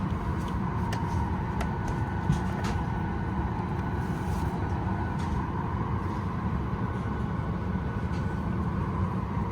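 Steady cabin air-conditioning rush and hum inside a parked Boeing 737 Max 8 during boarding, with a few faint clicks.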